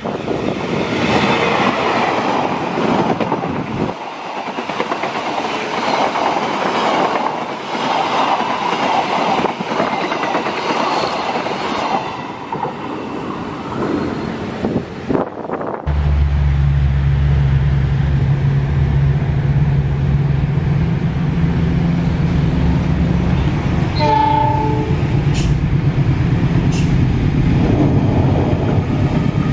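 A passenger train passing at speed, its wheels clattering and rushing on the rails, for about the first half. Then a diesel locomotive hauling a container freight train approaches with its engine running steady and deep. It sounds a short horn chord about three-quarters of the way through.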